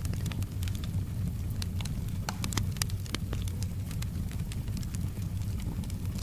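Wood fire in a fireplace crackling, with frequent irregular sharp pops over a steady low rumble, and soft rain behind it.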